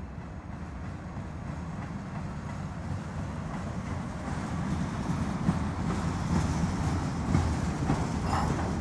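Slow freight train rolling by: a steady rumble of wheels on the rails that grows louder as the cars come close, with a few clacks from the wheels.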